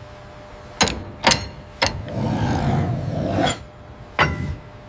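Metalwork on a tank's steel armour: three sharp metallic clanks in quick succession about a second in, a rasping scrape lasting a little over a second in the middle, then one more clank near the end.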